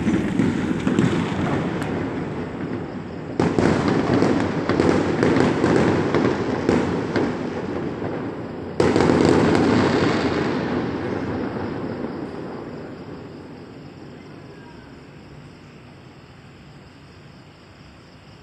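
Fireworks going off in a rapid barrage of bangs and crackles, with two sudden fresh volleys about three and nine seconds in. The bursts then die away over a few seconds to a faint background hiss.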